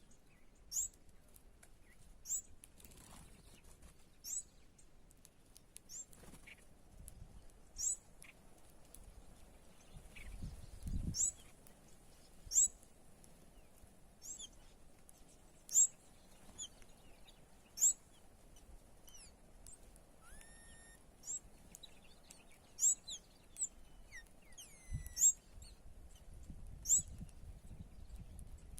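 Small birds chirping: short, sharp, high calls repeated about every two seconds, with a few lower gliding calls in the second half. There is a low rumble near the middle and again near the end.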